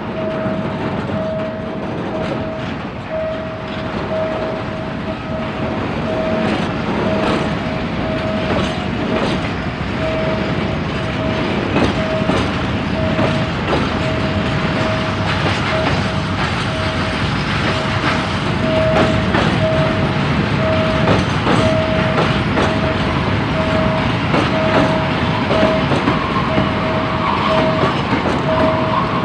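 Level crossing warning signal beeping in a steady on-off rhythm, about one and a half beeps a second, while a freight train rolls over the crossing with its wheels clicking over the rail joints.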